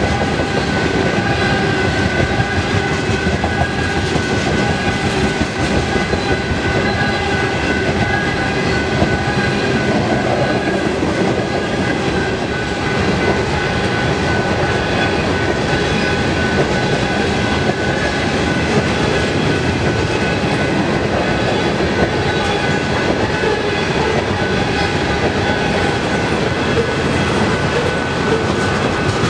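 Freight train of loaded ethanol tank cars passing at speed, steel wheels clattering steadily over the rails with a continuous rumble.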